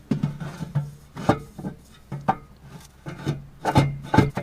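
A 4-inch exhaust pipe knocking and scraping against the truck's underside and frame as it is shoved and twisted into place. The irregular knocks and scrapes come every half second or so and are strongest near the end, over a steady low hum.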